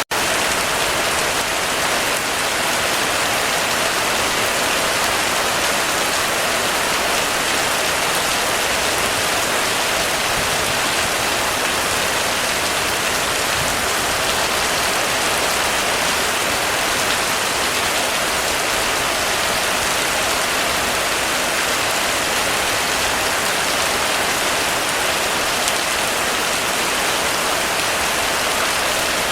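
Heavy rain falling steadily on a roof, an even, unbroken wash of drumming drops. The sound cuts out for a split second right at the start.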